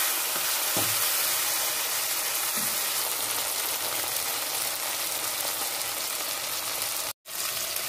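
Onions, capsicum and tomatoes sizzling steadily in hot oil and sauce in a metal kadai, with a steady hiss. The sound drops out for a moment about seven seconds in.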